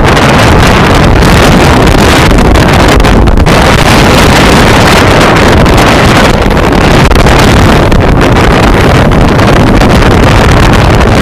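Strong wind buffeting the microphone on a sailboat under sail in a good breeze: a loud, steady rush that masks everything else.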